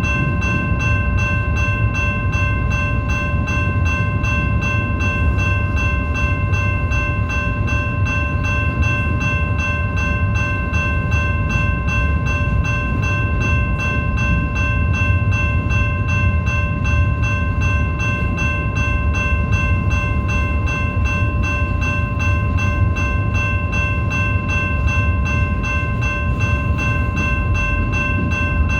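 BNSF train rolling past: a steady, loud low rumble with a steady high-pitched ringing of several tones above it, unchanging throughout.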